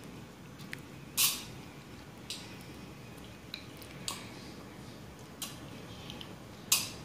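A toddler chewing and smacking on fried onion: scattered short clicks and smacks, about eight in all, the two loudest about a second in and near the end.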